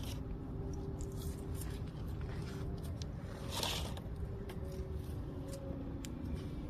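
A new drain plug being screwed into the Mercedes Sprinter van's oil pan: a few small metal clicks and a brief scrape about three and a half seconds in, over a steady low rumble with a faint hum.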